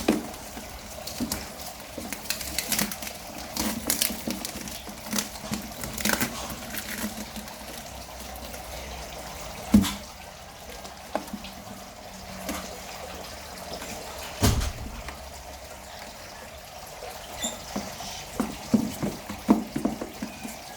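A cardboard shipping box being handled and opened: scattered scrapes, rustles and taps, with two louder thumps about ten and fifteen seconds in, over a steady background hiss.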